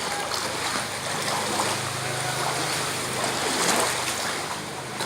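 Floodwater from heavy rain flowing in a steady rushing wash. A faint low hum rises under it from about two to four seconds in.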